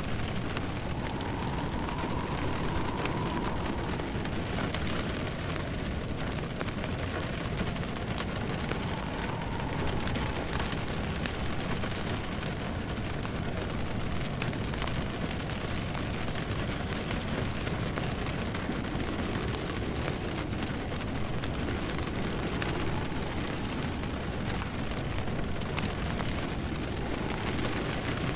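Steady rain with a wood fire crackling in a fireplace, and a faint howl of wind that rises and falls now and then.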